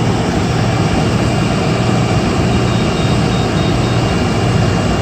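Condenser fan of a 5-ton three-phase air-conditioning condensing unit running steadily, a constant rush of air over a low hum, with no compressor running: a fan that runs while the compressor stays silent is the sign of a compressor off on its overload.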